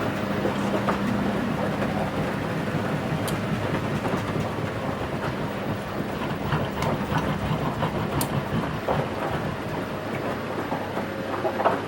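Washing machine running mid-cycle, the drum turning the laundry over: a steady churning with scattered clicks and knocks.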